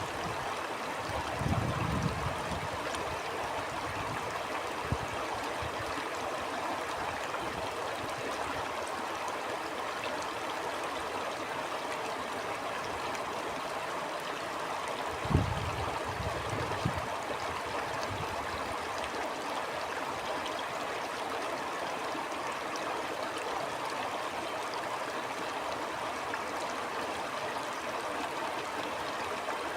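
Stream flowing steadily in an even, unbroken rush. Short low rumbles of wind hit the microphone about a second and a half in and again about halfway through, the second the louder.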